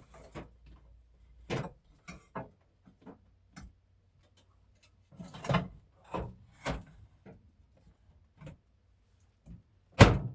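Scattered knocks and clatters of kitchen containers being handled and set down, with one loud knock near the end.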